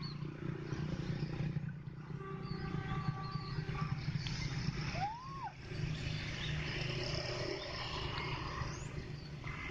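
Diesel locomotive engine running steadily during shunting of fuel tank wagons. A short tone rises and falls about five seconds in.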